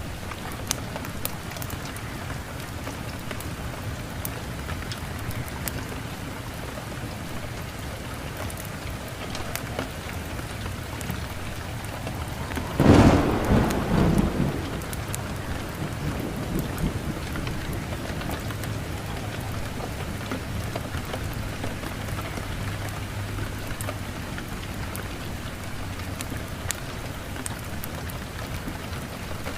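Steady rain falling, with a single loud clap of thunder just before halfway that rumbles on for a couple of seconds, then a faint low rumble lingering for several seconds after.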